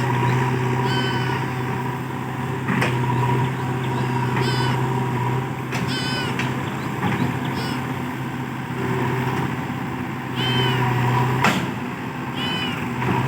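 Heavy diesel machinery running steadily, with repeated short high-pitched squeals and three sharp knocks.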